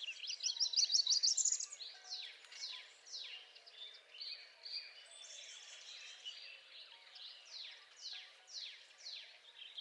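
Northern parula singing: a rising, buzzy trill in the first second and a half. Other birds follow with repeated sharply falling high notes.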